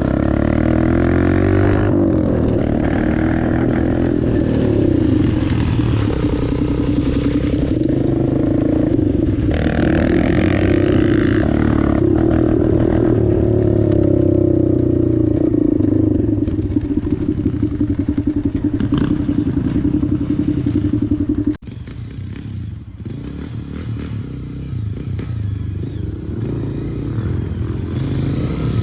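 Dirt bike engine running under way, its revs rising and falling as it rides over rough ground. About two-thirds of the way through, the sound drops suddenly and sharply, leaving a quieter engine sound.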